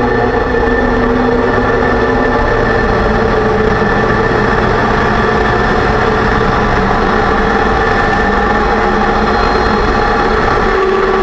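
2006 Range Rover Sport drivetrain and road noise, loud and steady, with whine tones that drift slightly in pitch over a rumble. The differential has just been rebuilt with new bearings and races, and the owner suspects the pinion preload was set too high.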